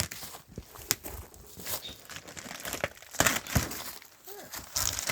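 A knife slitting packing tape on a cardboard box, with tearing and crinkling of cardboard and wrapping in irregular scrapes, loudest about three seconds in and again near the end.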